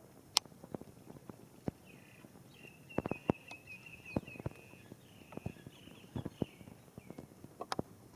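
Rain dripping: scattered single drops tapping irregularly close by over a soft steady rain hiss. A bird gives a high chirping trill from about two and a half to five seconds in, with a few shorter chirps after it.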